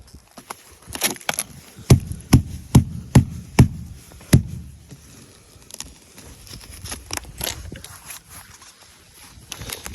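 Ice on a truck being struck and chipped: a run of six sharp knocks with dull thuds, about two a second, then fainter scattered clicks and scraping.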